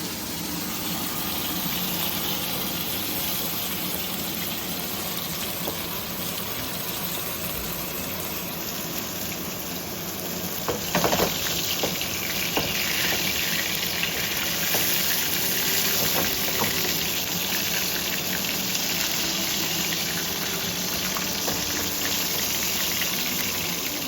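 Food frying in hot oil in a pan, a steady sizzle, with a short clatter of utensils about eleven seconds in.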